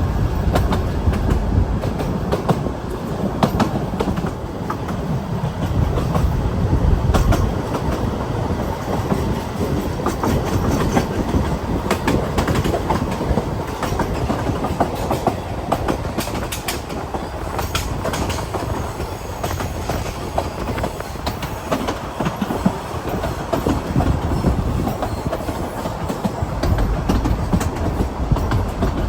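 Narrow-gauge train running steadily along the line, with a continuous rumble and irregular clicks and knocks from the wheels on the track.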